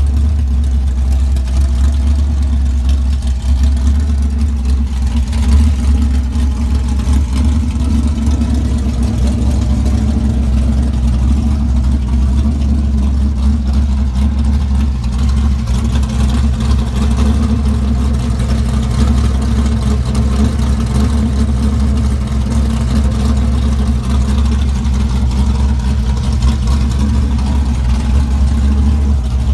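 1965 Dodge Coronet's 440 big-block V8 with a tunnel-ram intake, idling steadily with a deep low rumble.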